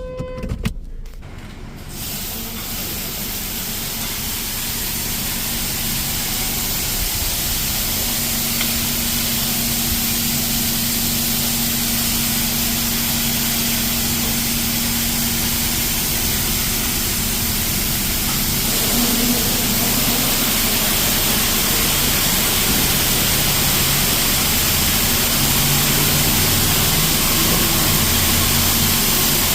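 High-pressure water jets of a Mark VII AquaJet XT touchless car wash spraying the car, heard from inside the cabin as a steady hiss. It starts about two seconds in and grows fuller about two-thirds of the way through, with a faint low hum underneath.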